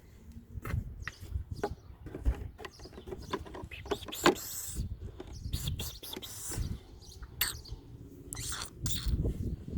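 Irregular clicks, knocks and scrapes of hand tools and metal parts as a bumper bar is bolted onto a Hino 500 series truck.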